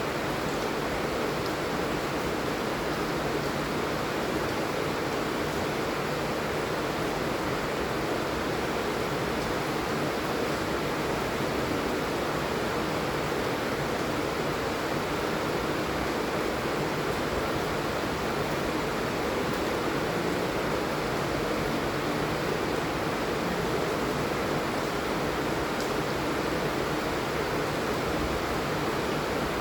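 Steady, heavy rain falling, a dense even hiss with no single drops or gaps standing out.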